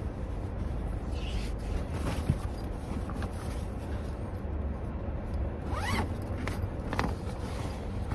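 A zipper being pulled in a few short zips, one a quick rising rasp about six seconds in, over a steady low background rumble.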